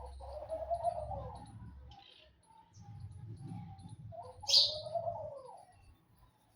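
Birds calling: two longer, lower calls that waver in pitch, one near the start and one about four seconds in. A short, sharp high chirp about four and a half seconds in is the loudest sound.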